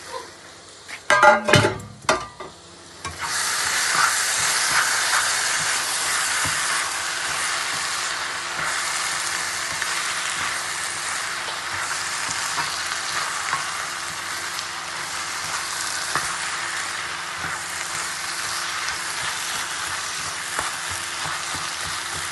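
A few metal clinks against a pan, then, about three seconds in, a loud sizzle starts as onions fry in hot oil, and it goes on steadily while they are stirred.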